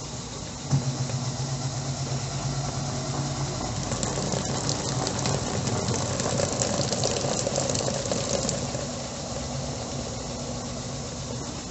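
Electrolux LTE09 top-loading washing machine running mid-cycle: a steady motor hum with a click about a second in. A stretch of crackly, splashing noise with fine ticks runs through the middle.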